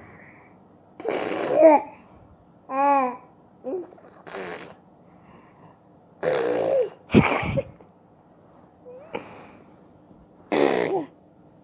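A baby vocalizing in about seven short bursts with pauses between: high-pitched babbling sounds that rise and fall, some breathy and noisy.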